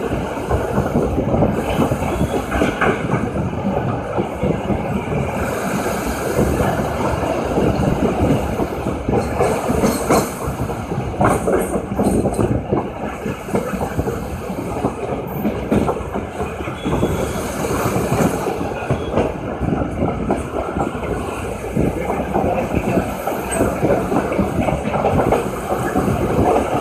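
Train running on the rails: a continuous loud rumble with the clatter of the wheels.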